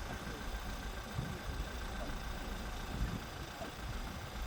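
A steady, low engine rumble, like a motor idling.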